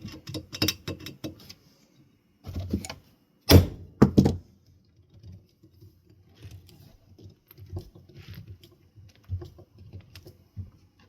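Tools and metal ceiling-fan parts being handled during reassembly: a scatter of clicks, clinks and knocks, the loudest pair about three and a half and four seconds in.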